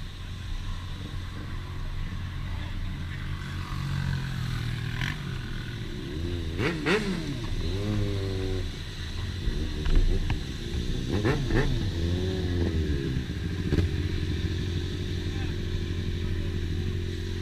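Motorcycle engines running steadily in a group ride. The pitch rises and falls about seven seconds in and again around eleven to twelve seconds in, as the engines rev.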